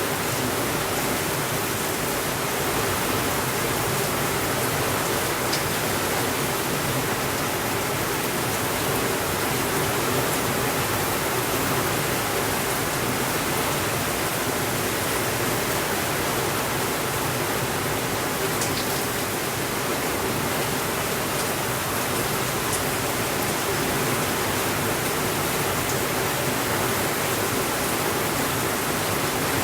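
Steady rainfall, an even hiss with a few faint ticks.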